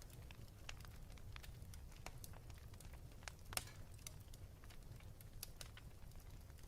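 Wood fire crackling in a fireplace: scattered small pops and snaps, with one louder pop a little past the middle, over a low steady rumble.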